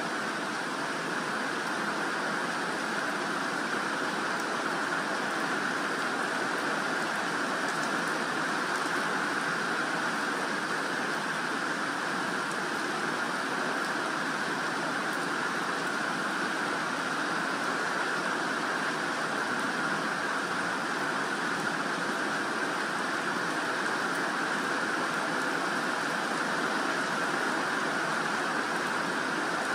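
Steady rain falling on garden foliage and grass, a continuous even hiss that does not let up.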